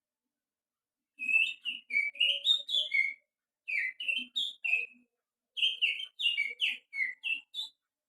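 A person whistling through the fingers in imitation of a white-rumped shama's song: three bursts of quick, varied chirping whistles with short pauses between them, the middle burst the shortest.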